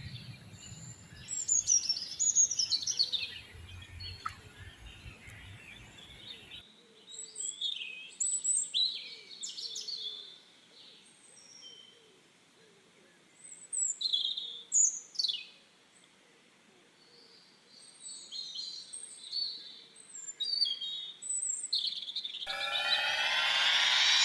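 Several small birds chirping and calling, with short, high, sweeping notes that come and go. Near the end a loud rising electronic sweep starts up.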